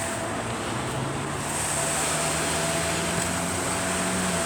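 Automatic car wash machinery running loudly: a steady rushing noise with a low motor hum that rises slightly in pitch.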